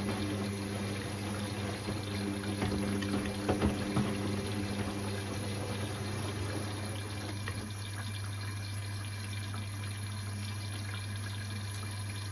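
Indesit IWC6165 washing machine moving water, with rushing water over a steady motor or valve hum. A higher part of the hum fades about five seconds in.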